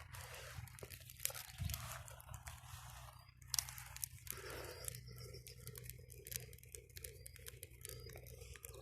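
Dry twigs and bark crunching and snapping as they are handled and laid on a small, freshly lit campfire, with scattered sharp crackles and one sharper snap about three and a half seconds in.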